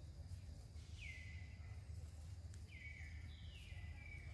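A bird calling three times with high whistled notes, each dropping in pitch and then holding steady, the last two close together near the end, over a steady low rumble.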